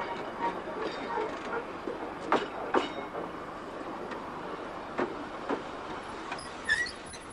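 Narrow-gauge Seaton Tramway electric tram running along the track, with a steady rumble and paired clicks as the wheels cross rail joints, twice. A few brief high squeaks come near the end.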